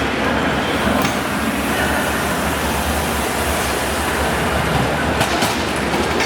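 Steady loud din of a crowded robotics-competition arena during a match, with a few faint clicks or knocks.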